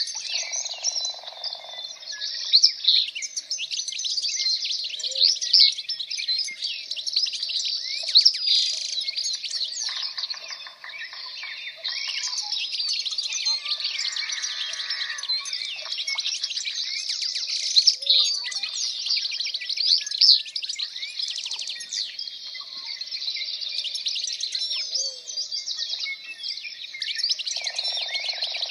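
Dense chorus of songbirds chirping and warbling continuously, many calls overlapping, with a lower repeated call surfacing every few seconds.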